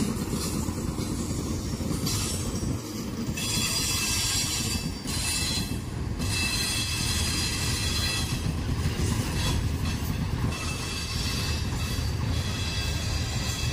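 Freight train rolling steadily past: a continuous rumble of wagon wheels on the rails, with high-pitched wheel squeal coming and going above it.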